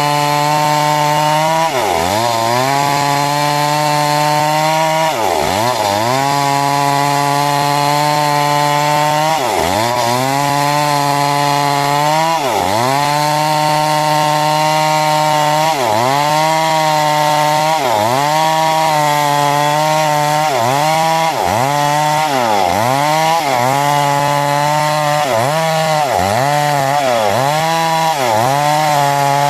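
Chainsaw cutting timber into 6 × 6 cm rafters, running at high speed with its pitch dipping and recovering again and again as the chain bites into the wood; the dips come faster toward the end.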